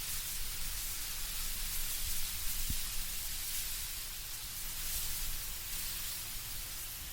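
Wind blowing through trees with leaves rustling: a soft, steady hiss.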